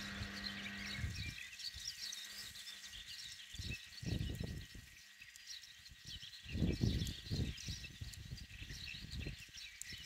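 Small birds chirping and twittering throughout, with low rumbles of wind on the microphone about four and seven seconds in.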